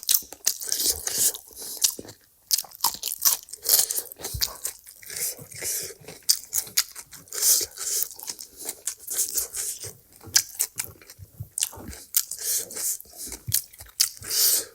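A person eating close to the microphone: irregular crunching and wet chewing sounds, one crackling bite after another.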